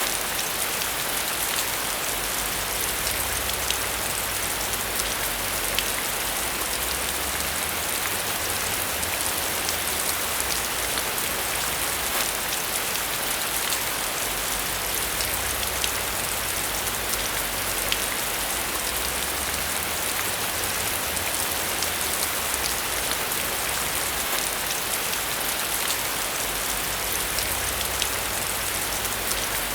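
Steady rain pattering on a surface, a continuous even hiss with individual drops ticking through it.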